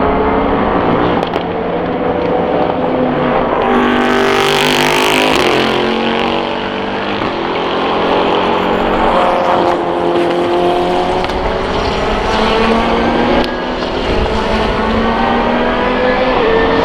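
Several Super GT racing cars accelerating out of the last corner onto the straight, engine notes overlapping and rising in pitch through the gears. About four seconds in, one car passes close with a loud rushing hiss.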